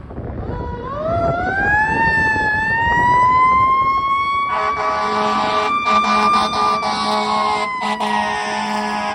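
Fire engine siren winding up in one smooth, slow rise to a high held pitch, then slowly starting to wind down near the end. From about halfway, a loud blaring air horn sounds over it in long blasts with short breaks, and the truck's engine rumbles underneath.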